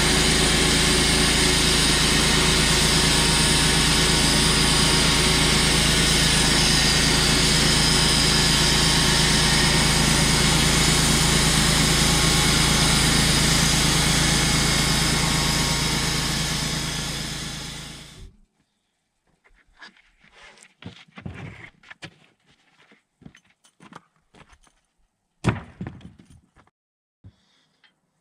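A small engine running steadily, which winds down and stops about 18 seconds in; after it, scattered wooden knocks and clatter, with one sharper knock near the end.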